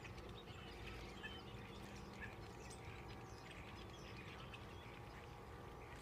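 A flock of small birds chirping in a tree, many short chirps overlapping at once, fairly faint.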